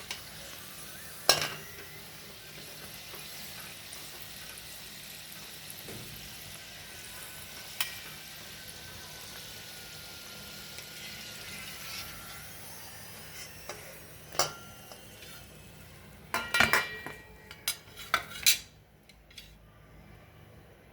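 Paneer and cheese rolls deep-frying in hot oil, a steady sizzle, with a few sharp clinks of a utensil against the pan and a burst of clattering near the end, after which the sizzle turns much quieter.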